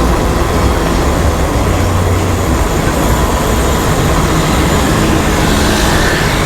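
Wind rushing over the microphone while riding, with road noise from the ride: a loud, steady rumble.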